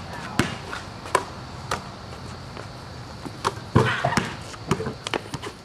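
Basketball bouncing and being played: a string of short thumps at uneven intervals, about eight in all, the loudest nearly four seconds in.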